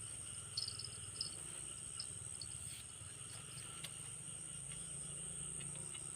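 Steady chorus of insects chirring, with high, even tones, and a few faint clicks in the first couple of seconds.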